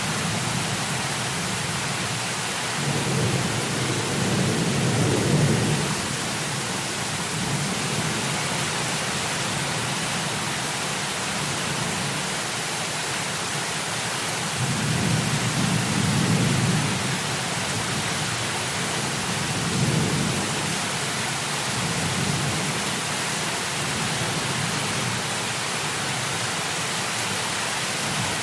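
Heavy rain falling in a steady hiss, with low rolls of thunder swelling and fading three times: a few seconds in, around the middle, and shortly after.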